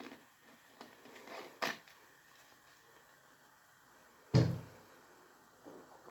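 Objects being handled: a few light clicks and knocks, then one louder thump about four seconds in, like something set down or a door or cupboard closing.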